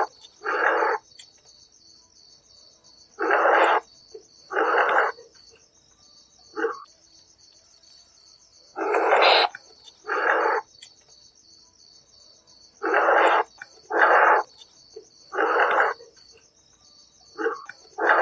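Nightjar calling: loud, harsh notes about half a second each, given in groups of two or three with pauses between. Crickets keep up a steady high pulsing trill behind them.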